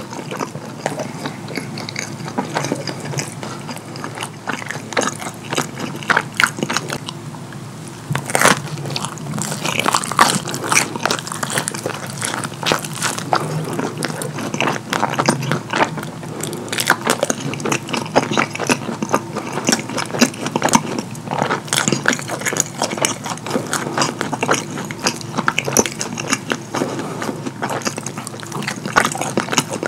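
Close-miked chewing of cheese-sauce-covered croissant pepperoni pizza: wet, sticky mouth sounds, lip smacks and crunchy bites in a dense, irregular run of clicks. The sounds get louder and busier about eight seconds in.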